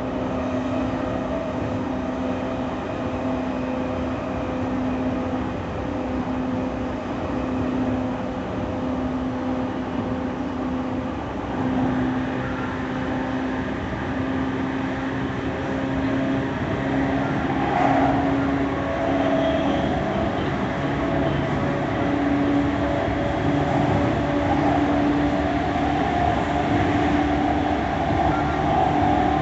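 JR East E231-1000 series electric commuter train running, heard from inside the car: a steady rumble of wheels on rail with the traction motors' hum. The sound grows a little louder about two-thirds of the way through, and the motor hum slowly rises in pitch near the end as the train picks up speed.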